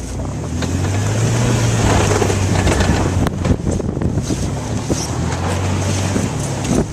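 A vehicle's engine running under load while driving through snow, growing louder about a second in and holding steady, with a noisy rush of tyres and snow beneath it.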